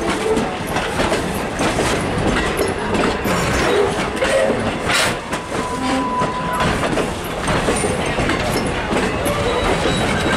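Strasburg Rail Road passenger coaches rolling past close by, their wheels clicking and clattering steadily over the rail joints.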